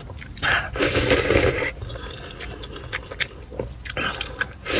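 Close-miked eating sounds of a person chewing and biting food, with a long noisy stretch about half a second in, scattered clicks, and another stretch starting near the end.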